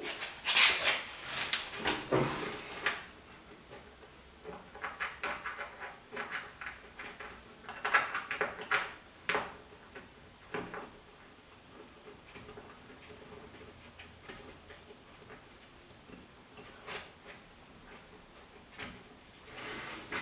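Light metallic clicks, taps and rattles in scattered bursts, from small bolts and hardware being handled and started by hand while a truck door handle is fitted into the door. It goes quiet for several seconds in the middle, and a few more clicks come near the end.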